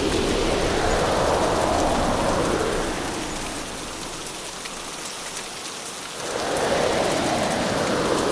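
Hurricane rain and wind, a dense rushing noise that swells and fades in gusts. It eases off about three seconds in and surges back just after six seconds.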